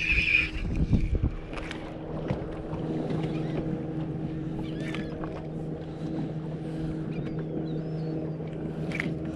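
Boat motor running steadily with an even low hum, with a few light clicks early on and faint high calls of the seabirds overhead.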